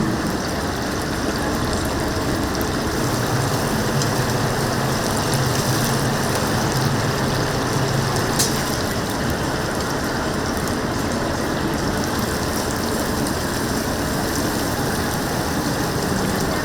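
Hot oil sizzling steadily as whole chickens deep-fry in a cauldron fryer, with a low steady hum underneath.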